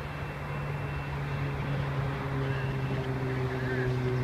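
Union Pacific SD70M diesel-electric locomotive's engine running as a steady low drone that slowly grows louder, with fainter higher tones joining in about a second and a half in.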